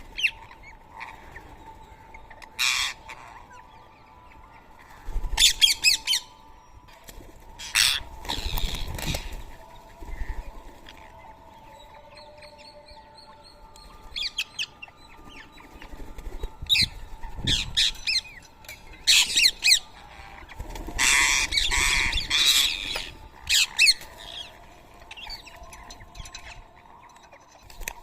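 Rose-ringed parrots squawking: short, harsh calls in scattered bouts, the loudest and longest bout about three-quarters of the way through.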